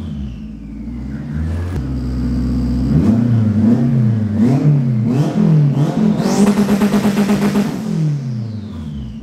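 Turbocharged Honda Civic engine heard from inside the cabin, its revs rising and falling several times off boost. A high whistle falls in pitch near the start and again near the end.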